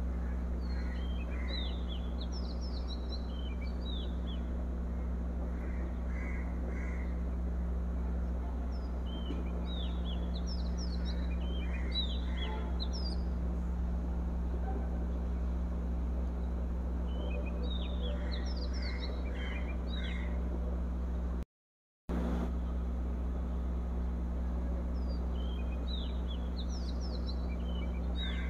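Birds chirping in short clusters of high chirps that come back about every eight seconds, over a steady low hum. The sound cuts out completely for about half a second a little past 21 seconds in.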